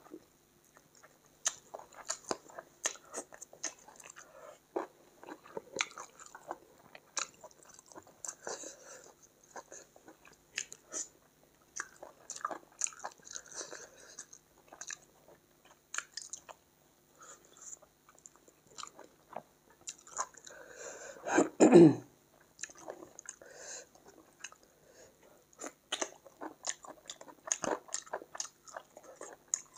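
Close-miked chewing and biting of chicken curry and rice eaten by hand: wet mouth smacks and crunchy bites in quick irregular clicks. About two-thirds through comes one short, loud throat sound from the eater.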